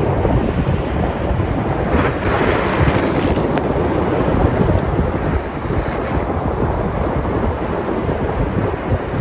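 Sea surf: waves breaking and washing on the shore, with wind buffeting the microphone. A wave breaks with a brighter hiss about two seconds in and fades by the middle.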